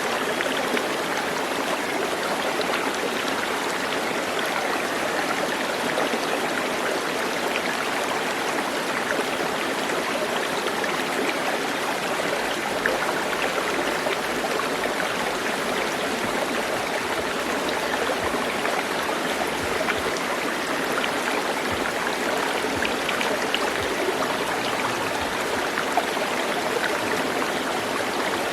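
Stream water flowing steadily, a continuous rushing and trickling, with a couple of brief clicks.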